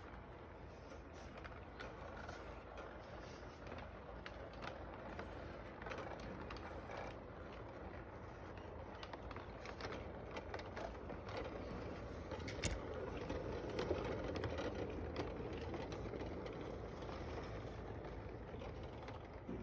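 Toy train running on its track: a steady low motor hum with many small irregular clicks and rattles from the wheels and cars, growing a little louder about two-thirds through with a couple of sharper clicks.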